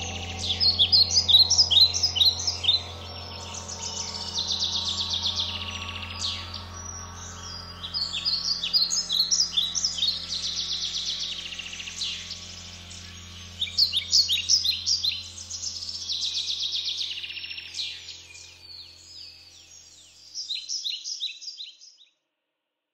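Songbirds singing in quick, repeated chirping trills over a low, sustained OB-6 synthesizer drone. The drone fades out near the end, and the birdsong stops shortly after.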